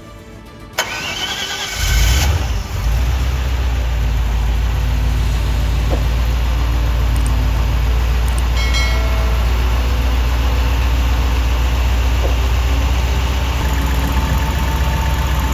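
Mercedes-Benz 280SE 3.5's 3.5-litre V8 is cranked over and catches about two seconds in, then idles steadily.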